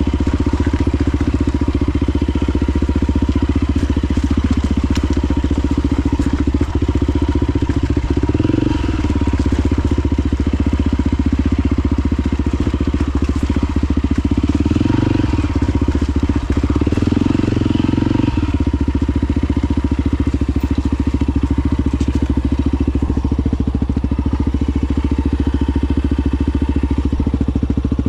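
Honda XR250 Baja's single-cylinder four-stroke engine running under way on a motorcycle ride. The engine note swells a few times as the throttle changes.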